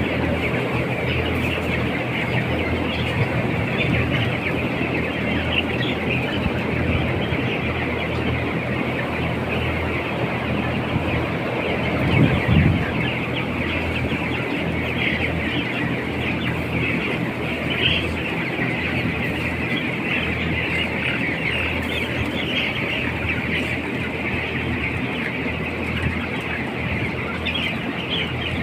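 A large flock of chickens in a poultry house, a continuous dense chorus of clucking and calls over a steady low mechanical hum, with a brief louder low thump about twelve seconds in.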